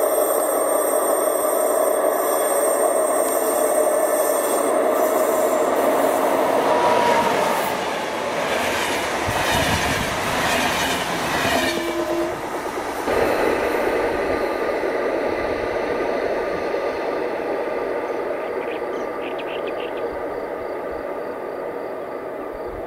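Electric locomotive-hauled passenger train coming up and passing, with a steady motor whine. Its wheels then clatter over the rail joints as the coaches go by. A steadier, fading train rumble follows.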